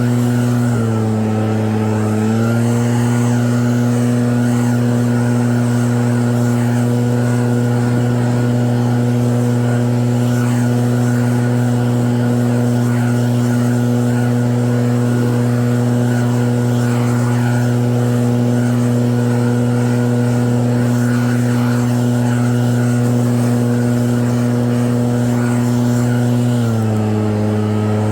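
Snowblower engine running steadily at high speed, its note dipping briefly twice, about a second in and again near the end, before recovering.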